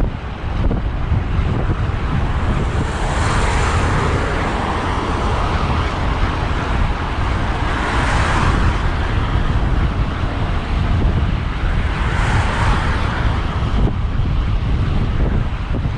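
Wind buffeting the microphone of a camera on a moving road bike, a steady low rumble, with road traffic passing: three swells of tyre and engine hiss, about three, eight and twelve seconds in.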